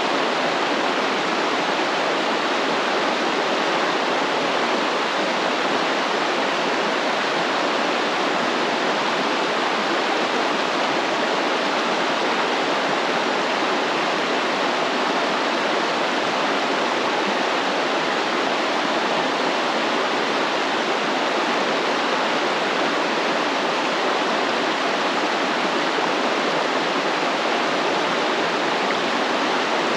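Stream water flowing and rushing steadily, an even continuous wash with no breaks.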